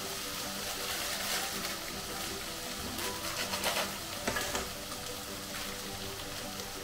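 Diced potatoes frying in ghee in an iron kadai, a steady sizzle, with a few louder crackles about three to four seconds in.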